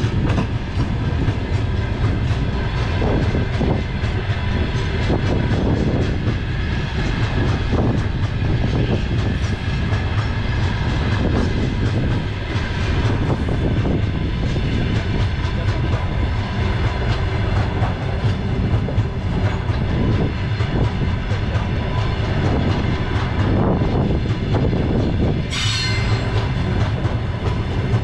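Freight train of open-top gondola wagons rolling past close by: a steady loud rumble with the clatter of wheels over the rail joints. A brief high squeal comes from the wheels near the end.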